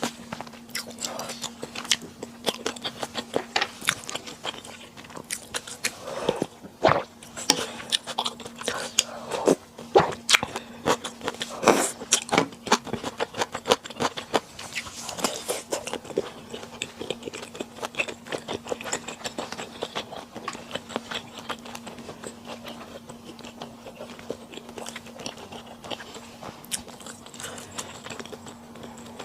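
Close-miked chewing and biting of Korean sundae and Chinese glass noodles: a dense run of sharp wet mouth clicks, busiest in the first half and thinning out after the middle. A faint steady hum sits underneath.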